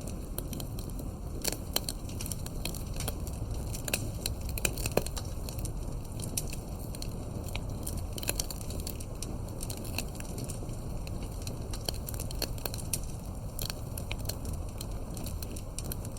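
Campfire of burning firewood crackling: frequent irregular sharp pops and snaps over a steady low rumble of the flames.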